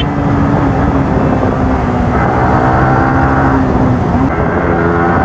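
Motorcycle engine and exhaust running under way at a steady pitch, with small shifts in pitch about two seconds in and again near the end.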